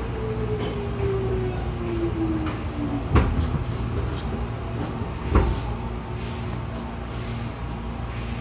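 Hankyu 6000-series electric train heard from inside the car, slowing: a running rumble under a motor whine that falls steadily in pitch. Two sharp clunks of the wheels over rail joints come about three and five seconds in, and short hissing bursts follow near the end as the train draws into the station.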